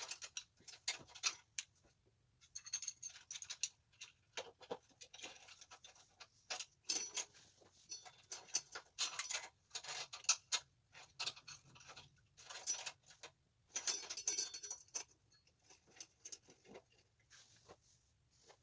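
Small metal parts and hand tools clicking and rattling while the minibike's clutch guard is put back together: irregular light clicks and short metallic clatters, busier in several bursts midway through.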